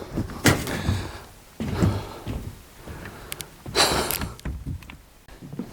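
Irregular knocks, scuffs and crunches, with a louder rustling scrape about four seconds in.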